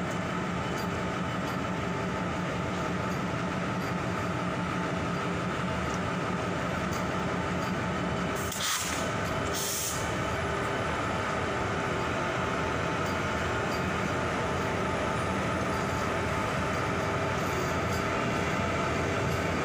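Vande Bharat Express electric multiple unit passing at close range: a steady rumble of wheels on rail with a steady hum running through it. Two brief high hissing bursts come about halfway through.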